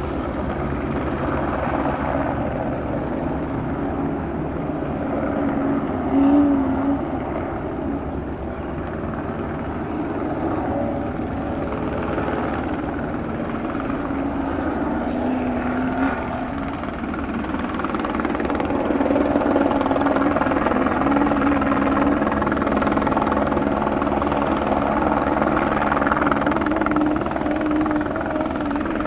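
Helicopter rotor and engine running steadily, growing louder about two-thirds of the way through.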